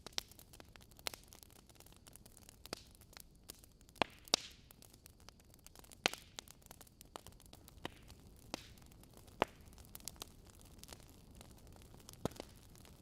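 Wood logs burning in a fireplace, crackling with irregular sharp pops over a faint steady hiss.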